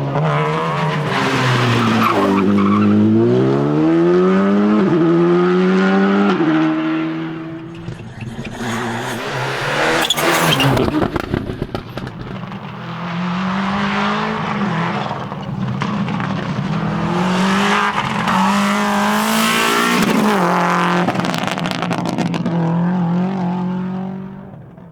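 Rally car engine revving hard and shifting up through the gears, the pitch climbing and dropping at each change, with tyres skidding on the road. The sound fades out near the end.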